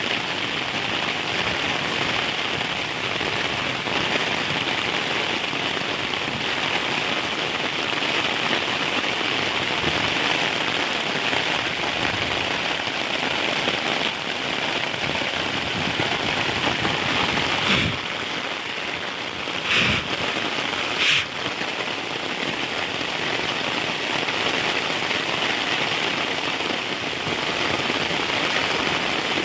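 Heavy rain falling steadily, a dense, even hiss. A few louder, sharp splats of drops stand out about two-thirds of the way in.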